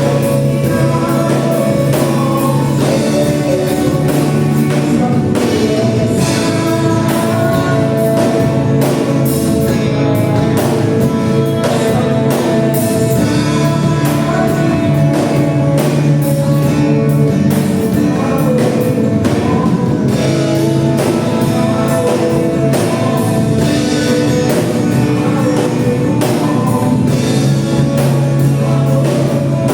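Gospel worship music: singers with a band, guitar and regular drum beats under held sung notes.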